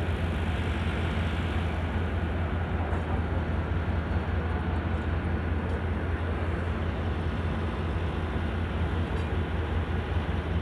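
Steady low hum and rumble of the Allama Iqbal Express, a Pakistan Railways passenger train, at close range.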